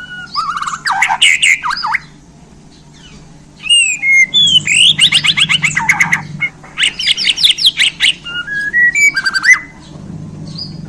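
Bornean white-rumped shama (murai batu Borneo) singing loud, varied phrases: clear whistles, rapid trills and rising runs of notes, typical of its mimicked fill-ins. The song pauses for under two seconds about two seconds in, with a faint low hum underneath.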